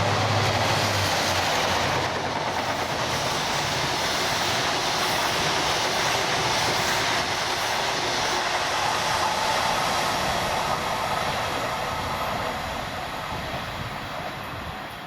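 Train running on rails: a loud, steady rush of wheel and track noise that fades over the last few seconds.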